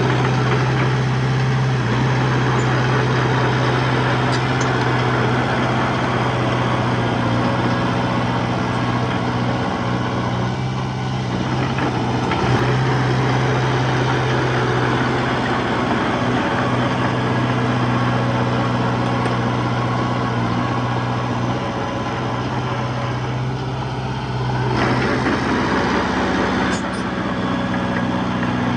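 Diesel engine of a small Komatsu D21P crawler bulldozer running steadily under work, with mechanical clatter over its low hum. The engine note shifts briefly near the end.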